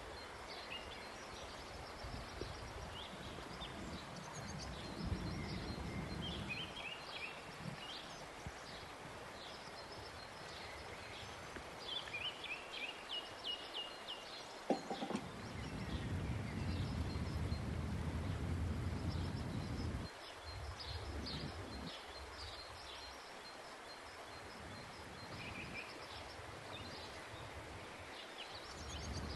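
Small birds chirping and singing throughout, in repeated short high calls, over a quiet outdoor background with a low rumble in stretches. A single sharp knock sounds about halfway through.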